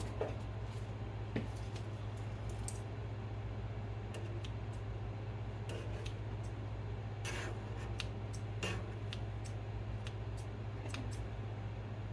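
Light, scattered clicks and scrapes of kitchen utensils working in a pot of chicken noodle soup, over a steady low hum.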